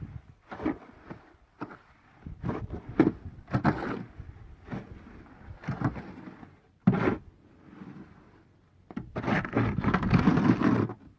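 Irregular scraping and knocking of hand tools working wet concrete, with a longer, louder scrape about nine seconds in.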